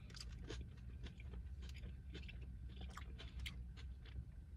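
A person chewing food, with a scatter of small, irregular mouth clicks.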